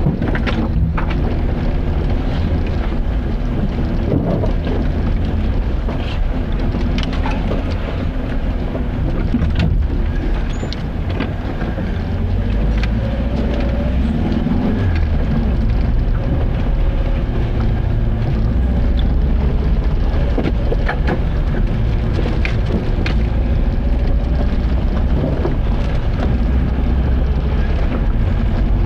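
Car driving: a steady low engine and road rumble with frequent short knocks and rattles.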